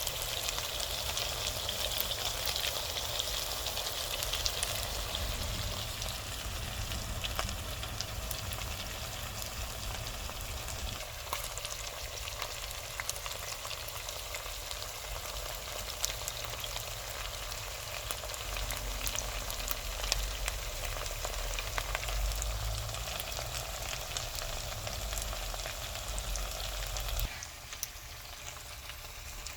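Chicken karahi frying in oil in a karahi pan, a steady sizzle full of small crackles over a low rumble; about 27 seconds in the sound drops quieter.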